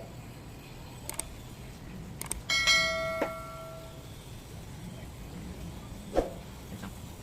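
A small metal object struck or dropped with a sharp clink, ringing with several clear tones for about a second, about two and a half seconds in. Light clicks and taps of small parts and tools being handled come before it, and one more tap comes near the end.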